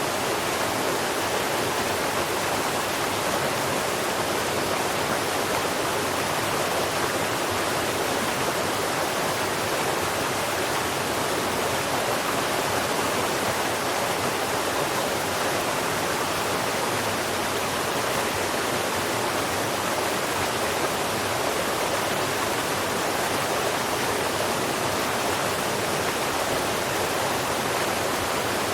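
Steady, even rushing noise that does not change across the whole stretch, with no birdsong in it.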